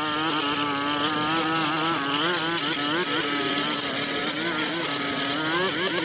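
Small gas engine of a pressure washer running steadily, its pitch wavering up and down under changing load, over a hiss of spraying water.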